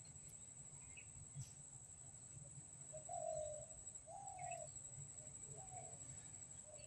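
Faint bird calls outdoors: a few short, low cooing calls from about three seconds in, with scattered higher chirps, over a steady high-pitched whine.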